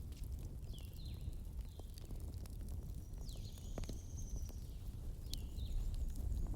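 Wood fire crackling: scattered sharp pops over a steady low rumble, with a few short high chirps.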